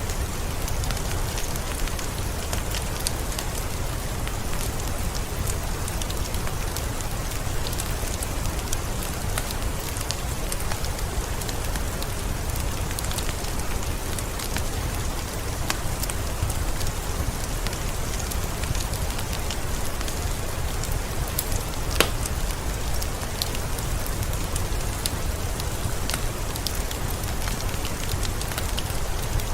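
Steady rain falling, with a wood fire crackling in a fireplace: scattered small pops throughout and one sharper crack about two-thirds of the way through.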